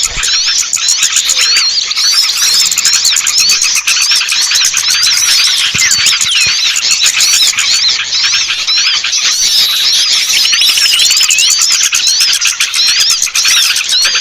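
Bird-lure recording of a dense chorus of many small birds chirping and twittering at once, a steady mass of overlapping high-pitched calls, played to draw small birds down.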